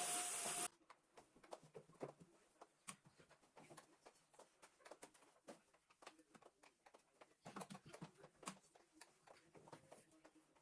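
A household appliance's motor running with a steady whine cuts off suddenly under a second in. Faint scattered taps and clicks of objects being handled follow.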